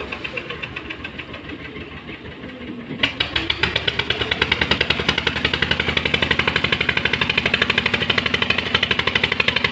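Engine running with a rapid, even knocking beat, quieter at first and then suddenly louder about three seconds in.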